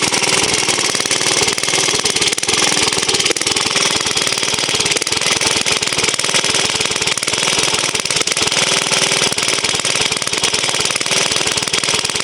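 Vintage J.A.P. stationary engine running steadily with a rapid, even beat, unloaded because the belt to its water pump is off, so it can warm up.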